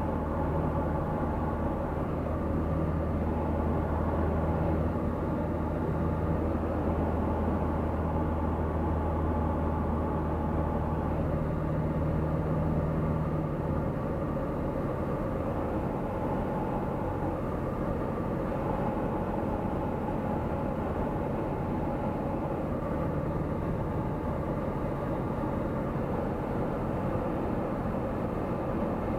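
Cockpit noise of a Tecnam P96 Golf light aircraft in flight, its Rotax 912 engine and propeller running steadily. About halfway through, the low steady hum drops away and leaves a more even rush of noise.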